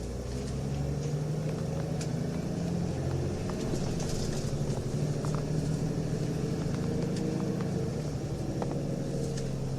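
Nissan Diesel UA city bus heard from inside the cabin, its diesel engine and ZF automatic transmission running steadily, with light rattling clicks. This bus's running sound has changed from the UA272's normal sound, which the owner takes for an abnormal-noise bus, possibly with torque-converter slip.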